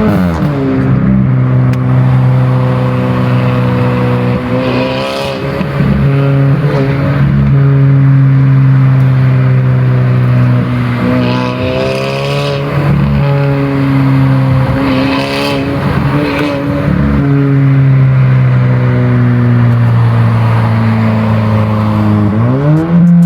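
Car engine and exhaust droning at a steady cruise with a deep, even note; just after the start the pitch drops as the revs fall, and near the end it climbs sharply as the engine is revved up under acceleration.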